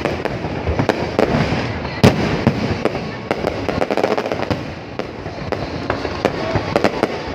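Fireworks display: a dense, continuous run of bangs and crackles, with one especially loud bang about two seconds in.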